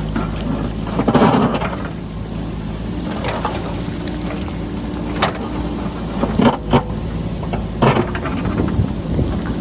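JCB backhoe loader's diesel engine running steadily under load while its bucket digs into rocky ground, with rock and soil scraping and clattering and several sharp knocks, the biggest about a second in. Wind rumbles on the microphone throughout.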